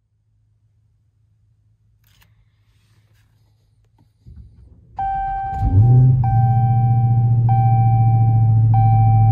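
Dodge Challenger SRT Hellcat's supercharged 6.2-litre V8 cold-starting: after a brief crank it catches about five and a half seconds in, flares up, then settles into a steady fast cold idle. Over it, a warning chime dings about every second and a quarter, starting about five seconds in.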